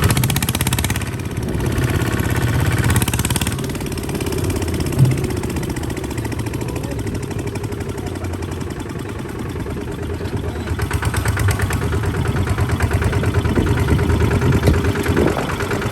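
Kubota RT140 DI single-cylinder diesel engine running steadily with an even firing beat, getting louder from about the middle on. A brief sharp knock about five seconds in.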